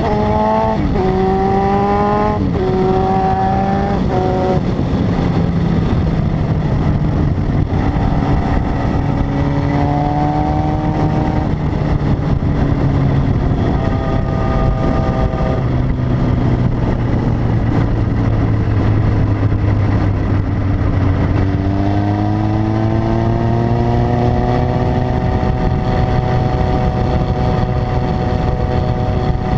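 Honda CB900F's air-cooled inline-four motorcycle engine under way, pitch climbing and dropping through a few quick upshifts at the start, then holding a steady cruise with slow pitch drifts, picking up again about two-thirds of the way through. Wind noise rushes underneath.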